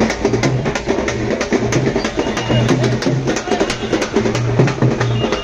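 Loud music driven by fast, dense drumming over a pulsing bass.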